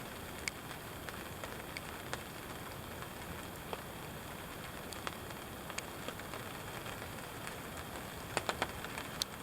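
Steady rain falling, with scattered single drops tapping close by and a quick run of taps near the end.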